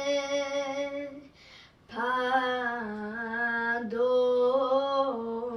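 A woman singing a slow Serbian folk song unaccompanied, holding long drawn-out notes with ornamented wavering. About a second in the note breaks off for a quick breath, and a new phrase begins about two seconds in.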